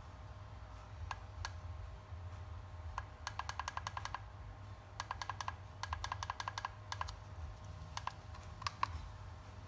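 Runs of rapid light clicks, about eight a second and each run lasting up to a second, with a few single clicks between, over a low steady hum.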